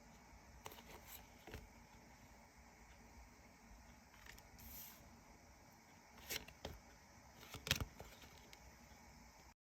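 Near silence with a faint hiss, broken by a few soft clicks and taps: a couple about a second in, a brief high hiss in the middle, and a louder cluster of taps in the second half.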